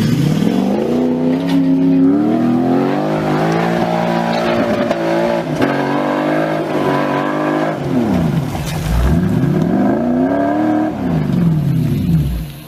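A car engine revving under acceleration, its pitch climbing for several seconds. The revs then drop and climb again twice in the last few seconds.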